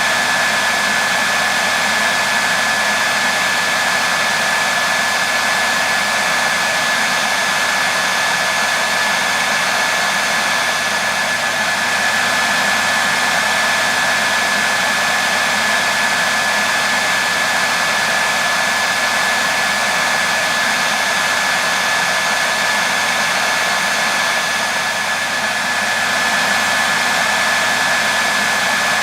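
Hair dryer running steadily: an even rushing of air with a thin constant whine from the motor and fan.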